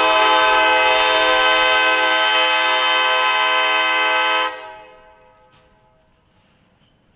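Locomotive air horn sounding one long blast, a chord of several tones, that cuts off about four and a half seconds in and fades away.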